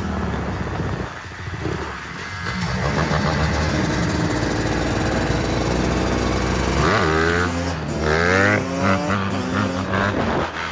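Dirt bike engine running, revved up and down several times about seven seconds in.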